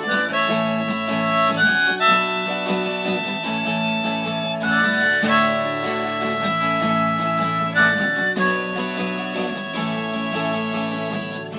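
Harmonica solo of long held notes over acoustic guitar chords, in an instrumental break of the song. The melody moves to a new note every second or two.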